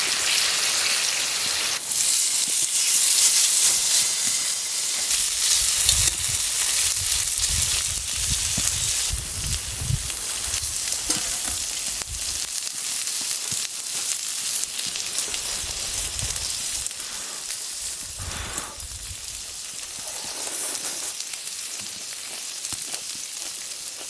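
Thin-sliced frozen pork belly sizzling steadily over a strong wood fire, with low bumps now and then partway through.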